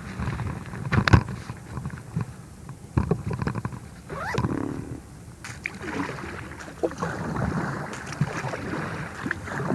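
Kayak breaking through thin ice: irregular sharp cracks and crunching as the ice sheet breaks against the hull, the loudest crack about a second in, with a short gliding squeal about four seconds in.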